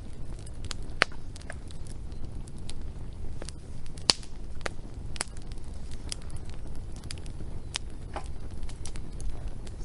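Wood fire crackling, with irregular sharp pops and snaps over a low steady rumble of the burning logs; the loudest pops come about one second and four seconds in.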